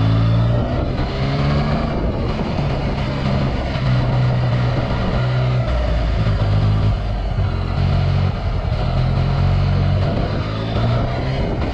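2018 Yamaha XSR900's three-cylinder engine through an Akrapovic carbon full exhaust, running under way as the motorcycle is ridden, its note shifting up and down every second or so with the throttle.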